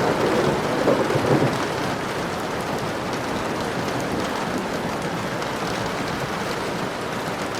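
Steady, dense rainfall, with a low rumble of thunder in the first second and a half that fades into the even hiss of the rain.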